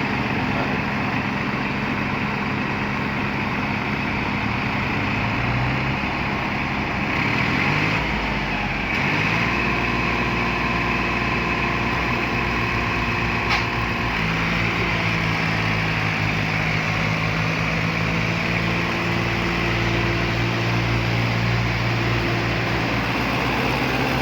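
Tractor diesel engine running under load in mud, its engine speed shifting up and down several times, with one sharp click about halfway through.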